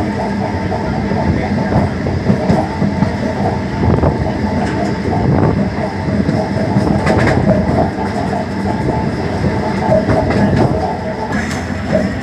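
MEMU electric passenger train running, heard from inside the coach: a steady rumble of wheels on the track with clattering knocks.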